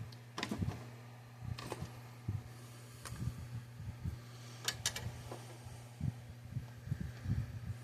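Small electrolytic capacitors and other parts being handled and set down in a plastic enclosure: a series of light clicks and soft knocks at irregular intervals, with a steady low electrical hum underneath.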